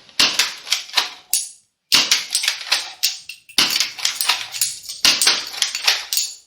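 Kar 98k gel-blaster toy rifle being worked: rapid sharp clicks and clacks of the bolt and mechanism, several per second in short bursts, broken by a sudden cut to silence about a second and a half in.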